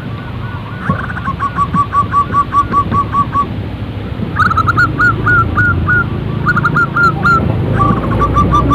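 Zebra dove calling in rapid series of short, clipped notes, about four or five a second, with pauses between runs. A steady low hum lies under the calls and gets louder near the end.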